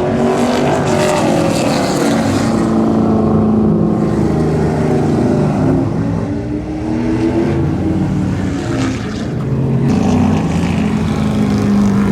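Super Stock race car engine running, its revs rising and easing off several times.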